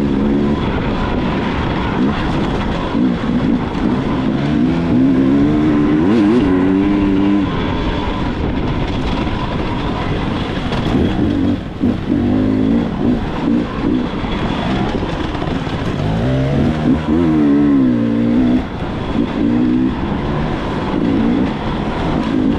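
Dirt bike engine revving up and down as it is ridden, its pitch rising and falling again and again with the throttle, over a steady rushing noise.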